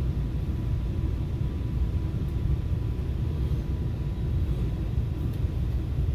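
Steady low rumble of a FrontRunner commuter train heard from inside a passenger coach as it runs along the track, with a faint thin whine that fades out about five seconds in.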